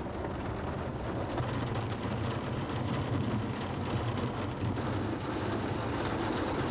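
Heavy rain pouring on a city street, a steady hiss with a low traffic rumble underneath.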